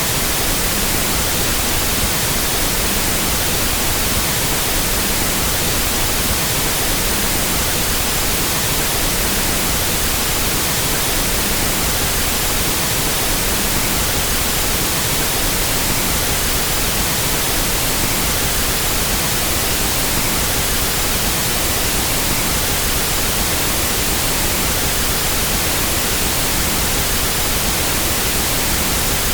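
Pink noise test signal: a steady, even hiss across the whole audio range at a constant level, the reference signal used for equalizing sound systems.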